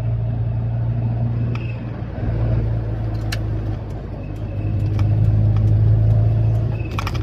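A car engine and road noise, heard from inside the moving car. The engine pulls louder about five seconds in, with short, faint squeaks and a few clicks and rattles over it. The squeak comes only while the accelerator is pressed and goes when it is released; the owner can't find the cause.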